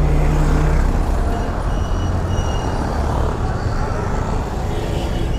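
Road traffic in a jam heard from a motorcycle, with engines running as a steady low drone. A low steady tone stops under a second in, and short faint high tones come and go.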